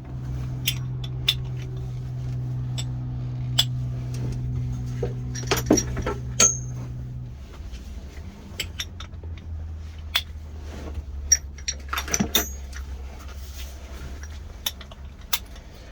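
Metal buckles and latches of a five-point racing harness clicking and clinking as it is fastened, a scatter of sharp clicks, over a steady low hum that drops lower about seven seconds in.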